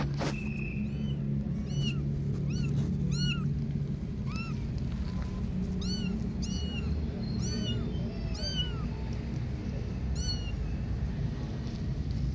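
Repeated high-pitched kitten mews: short calls that each rise and fall quickly, coming every half second or so with a few pauses, over a steady low rumble.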